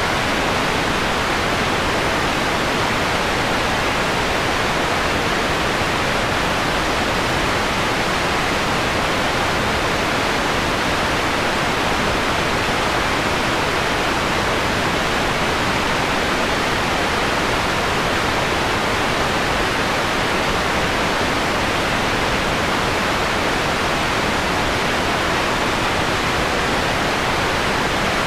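Steady electronically generated white noise, filtered so the treble is softened into a smooth, even hiss. It does not change in level or colour.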